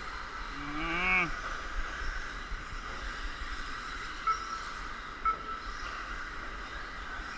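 Electric 1/10-scale RC stadium trucks running on a race track, a steady high whine with short spikes as they accelerate. About a second in, a brief pitched call, rising then falling, from a person's voice.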